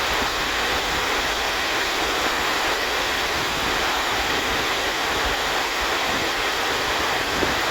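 Heavy rain falling steadily, an even hiss with no distinct events.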